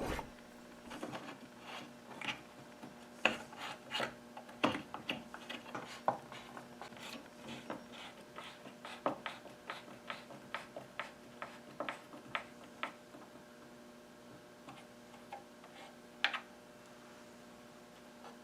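Light, irregular taps, clicks and scraping of wooden pump organ parts being handled and worked on, thinning out after about two thirds of the way, with one sharper click near the end, over a faint steady hum.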